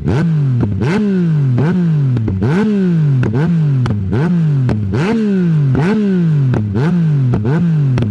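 Yamaha Niken's three-cylinder engine through an Akrapovič exhaust with its baffle removed, revved again and again about once every 0.8 s. Each blip jumps up sharply in pitch and falls away, with a crack at the start of each.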